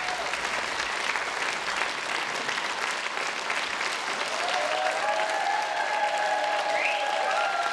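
Audience applauding steadily, with voices cheering and whooping over the clapping from about halfway through.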